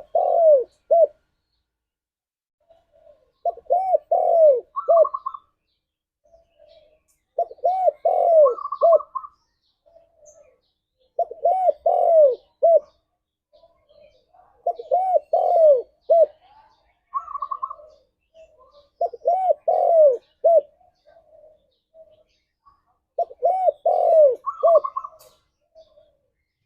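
Spotted dove (tekukur) cooing: the same phrase of several quick, arched coos repeats about every four seconds, some phrases ending in short higher notes.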